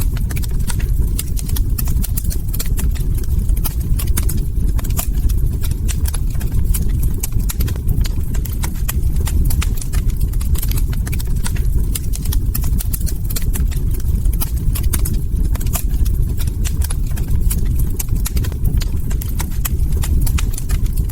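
Log fire crackling steadily: a dense, irregular scatter of sharp pops and snaps over a steady low rumble.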